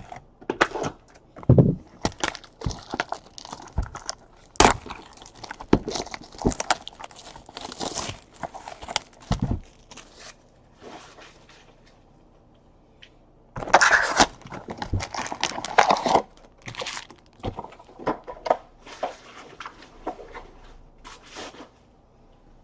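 Hands opening and handling sealed trading-card boxes and packs: taps and knocks of cardboard with plastic wrap tearing and crinkling. The handling pauses briefly past the middle, then a longer burst of crinkling follows.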